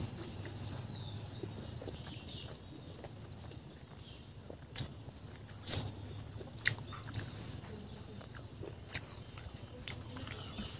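Close-up mouth sounds of a person chewing crunchy fried crab, with wet chewing and a handful of sharp crunches of shell in the second half.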